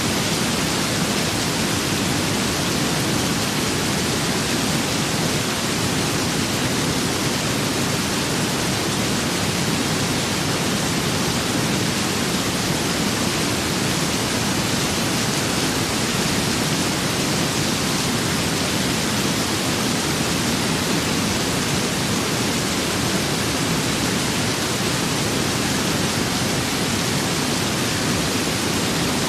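Steady rain with wind: an even, unbroken hiss that holds one level throughout, with no thunder or separate drops standing out.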